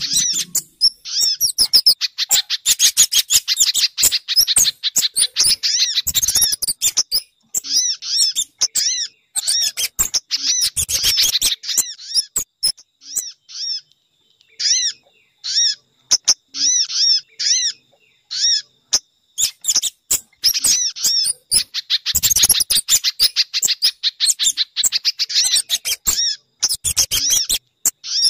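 Bird-lure recording of small birds calling: fast runs of sharp, high chirps in dense bursts with short gaps, thinner and more spaced out in the middle stretch. The track mixes sogon, spiderhunter and kemade calls, played to draw wild birds in.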